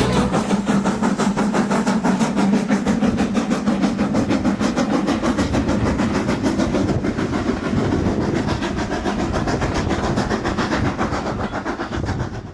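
A heritage train running along the line, with a fast, even beat of about five strokes a second.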